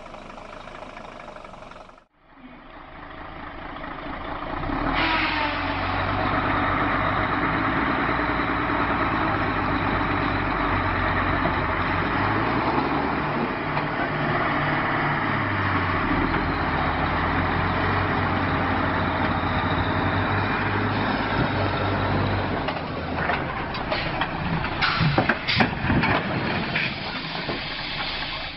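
Heavy truck engine running steadily with a low drone, building up over the first few seconds. A few sharp knocks and clatters come near the end.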